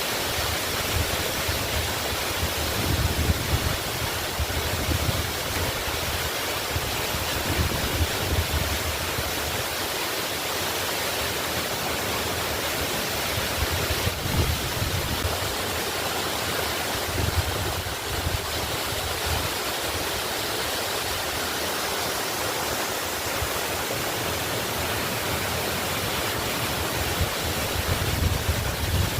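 Waterfall cascading: a steady, even rush of falling water, with a deep rumble that swells and eases every few seconds.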